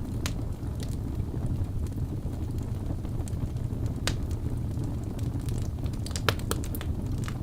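Wood logs burning in a fireplace: a steady low rumble of the flames with scattered sharp crackles and pops, a quick cluster of pops a little past six seconds in.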